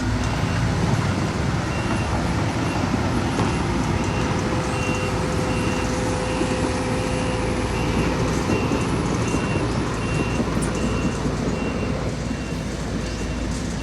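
Heavy diesel construction machinery running steadily, with a backup alarm beeping evenly just over once a second.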